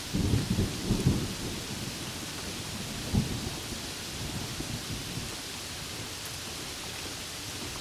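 Steady rain with thunder rolling in the first second or so, another clap about three seconds in, then the rumble dying away under the rain.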